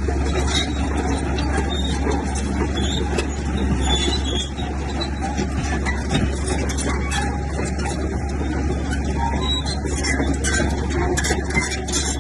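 Komatsu crawler bulldozer working, its diesel engine running steadily under a quick clatter of metal track links.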